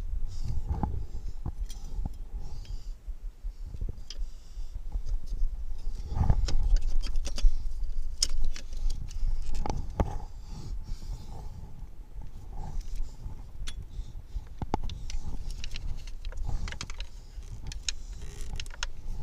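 Irregular metallic clinks and clicks of hand tools and battery hardware being worked on a car battery, with a few heavier dull bumps.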